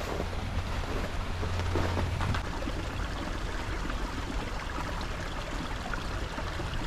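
Steady rushing of flowing water from the partly frozen waterfall and river, with a low rumble underneath.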